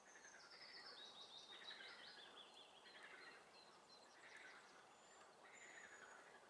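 Faint songbird song in a marsh: a high, stepped trill falling in pitch over the first half, then a couple of thin high whistles. Under it a lower, falling call repeats about every second and a half.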